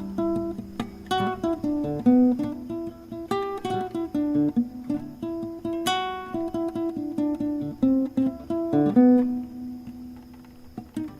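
Background music: acoustic guitar strumming and picking notes, the chords ringing out and growing softer near the end.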